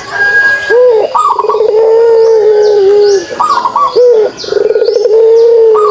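Puter pelung dove (a Barbary dove breed) giving its kugeruk call: long, steady, low rolling coos broken by short rising hooked notes, repeated several times. Faint high chirps from small birds sound over it.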